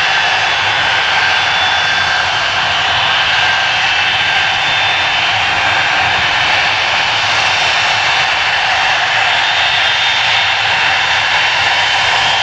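Boeing C-17A's four turbofan jet engines running loudly and steadily: a broad rush with a high whine over it, neither rising nor falling.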